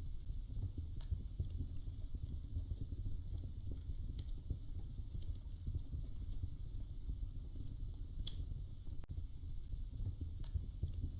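Wood fire burning in a fireplace: a steady low rumble with a handful of sharp crackles and pops spread a couple of seconds apart.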